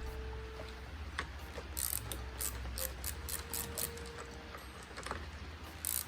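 Hand ratchet wrench clicking in an even run of about three clicks a second, starting about two seconds in, pausing briefly, then clicking again near the end.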